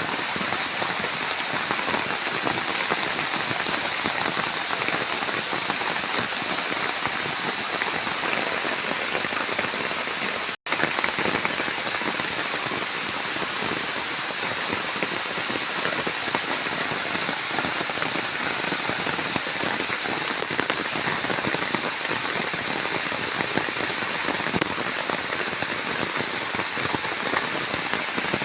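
Steady heavy rain falling, a dense even patter that breaks off for an instant about ten seconds in.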